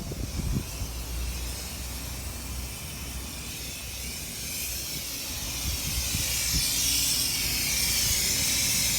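Car wash equipment hissing steadily, growing louder over the second half.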